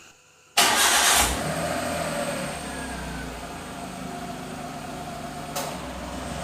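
A car engine starting: a loud burst about half a second in, then the engine settling to a steady idle, with a short click near the end.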